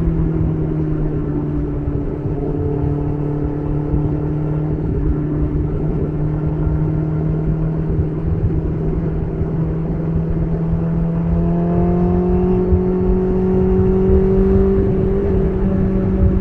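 BMW S1000RR's inline-four engine running through an SC Project CR-T titanium exhaust while riding. The exhaust note holds steady, dips slightly at the start, and rises gently about two-thirds of the way through as the bike picks up speed, with road and wind noise underneath.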